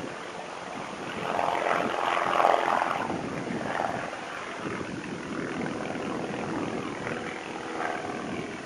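Propeller airplane engine running, growing louder to a peak about two and a half seconds in and then fading, as the plane passes by.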